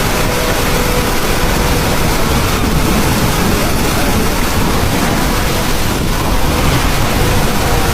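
Floodwater rushing in a flash flood: a loud, steady, unbroken noise of fast-moving water.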